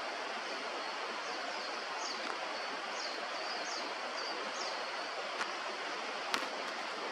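Steady rush of river water, with a run of about eight short, high chirps from a bird between about one and five seconds in, and two sharp clicks near the end.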